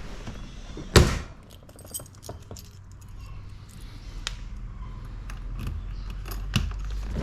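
A single loud knock about a second in, then a run of light clicks and jingling like keys being handled, over a low steady rumble.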